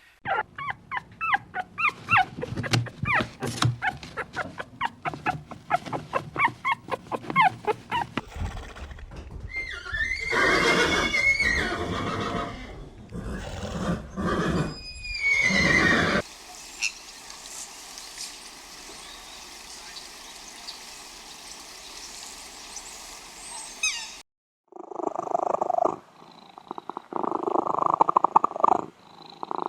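Animal calls from several different animals in quick succession, with abrupt changes between them: a run of rapid short calls, then louder calls with rising and falling pitch, a quieter steady stretch, and loud bursts near the end.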